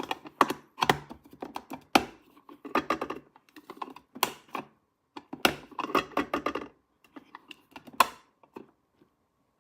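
Small plastic toy pieces being handled, set down and clicked together, making irregular runs of quick taps and clicks that stop about nine seconds in.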